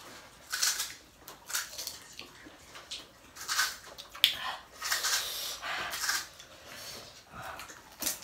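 Crisp, hollow fried puri shells being cracked open and crunched while eaten, in short, irregular bursts of crunching.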